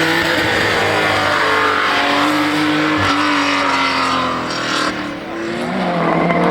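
Historic rally car engine revving hard as the car is driven through the stage, its pitch rising and falling with the throttle. The level dips about five seconds in before a lower engine note comes up near the end.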